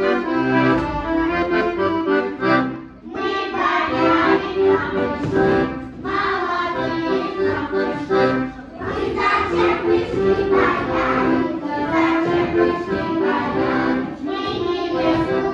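Accordion playing a lively folk tune, with steady chords under a running melody.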